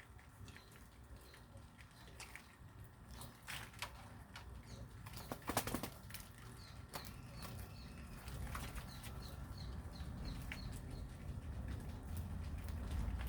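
Birds moving about: scattered wing flaps and small clicks, then a cluster of sharp knocks about five and a half seconds in. Short high chirps repeat through the second half, over a low rumble that grows toward the end.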